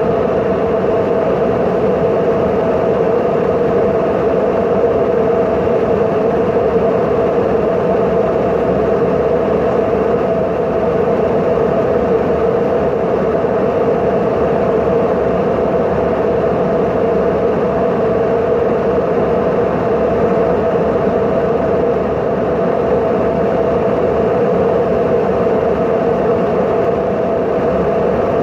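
Steady, loud vehicle drone with an even hum that holds unchanged throughout.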